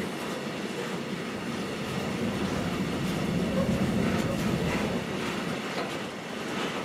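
Freight train of container flat wagons, mostly running empty, rolling past: a steady rumble of steel wheels on the rails, swelling a little about three to four seconds in.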